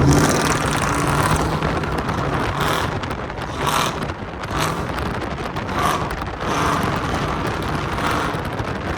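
Cammed 5.3-litre V8 Tahoe running down the road, its exhaust through Speed Engineering headers and a Corsa Pro muffler heard through the open windows. Wind buffeting on the microphone runs over the engine note.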